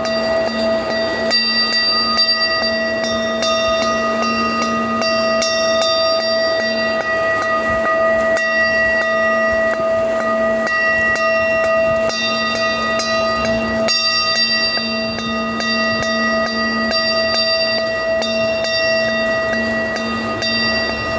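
Steady ringing bell-like tones, several pitches sounding together, over a rain-like patter with many small scattered ticks.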